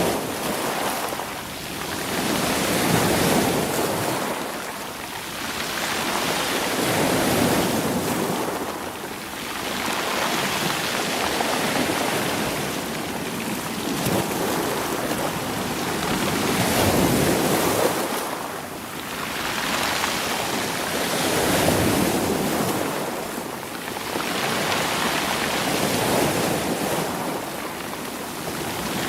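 Sea waves washing in over rocks and stones and drawing back, rolling them. The surf swells and ebbs every few seconds.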